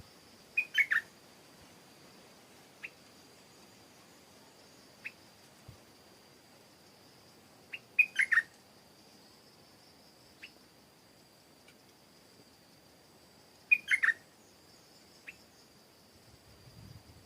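Stripe-throated bulbul singing in short bursts: three brief phrases, about six seconds apart, with single short notes in between. A steady high-pitched whine runs underneath.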